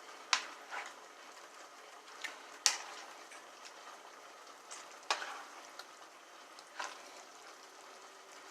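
Food simmering on low in a pot with a faint steady sizzle, while a utensil stirring it strikes the pot several times in sharp clinks.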